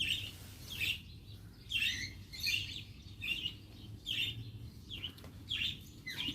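Birds chirping: a run of short, sharp calls, a little more than one a second, each dropping in pitch.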